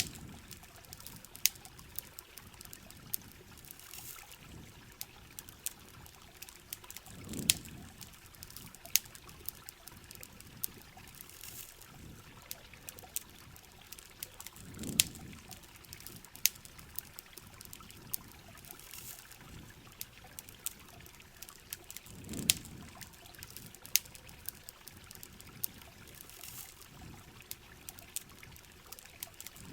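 Rain and campfire ambience: water trickling and dripping under a steady hiss of rain, with frequent sharp crackles and pops, and a low whoosh of water about every seven and a half seconds.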